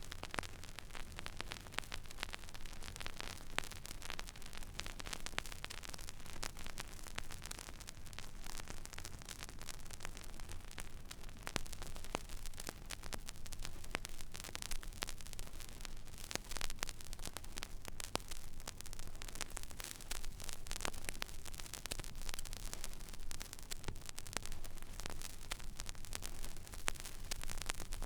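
Record player stylus running in an empty vinyl groove: steady surface hiss and dense small crackles and pops, over a low hum.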